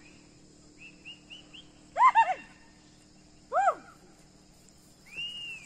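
Bird calls: a few short soft chirps, then two loud runs of quick arched, falling notes about two and three and a half seconds in, and one long arched whistle near the end.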